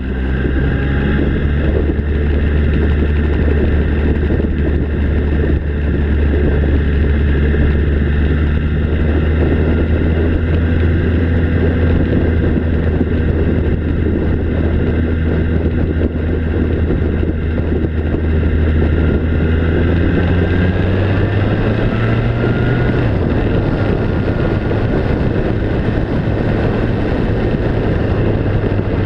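A vehicle engine running steadily under way, with a low drone and a rushing noise, and the engine note shifting about two-thirds of the way through.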